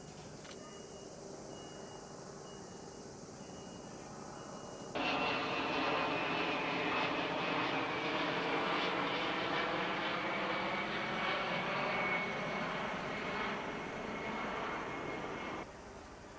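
Firefighting aircraft engine running loud, with a high whine that slowly drops in pitch as it passes. It starts and stops abruptly at edit cuts, with only faint background noise before it.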